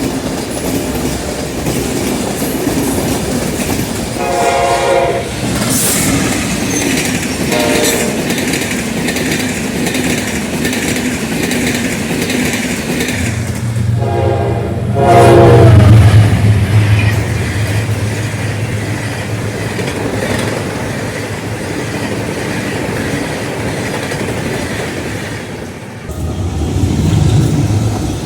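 General Electric diesel-electric locomotive passing with a train, sounding its horn about four seconds in, briefly again near eight seconds, and twice more around fourteen to fifteen seconds. The engine's low rumble peaks just after the last horn, with wheels clacking over the rail joints throughout.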